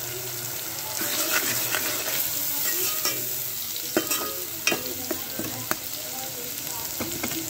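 Sliced onions, garlic-ginger paste and ground spices sizzling steadily in hot oil in a steel pot as the masala is fried (bhuna), while a metal spoon stirs and scrapes through it. The spoon clinks sharply against the pot a few times.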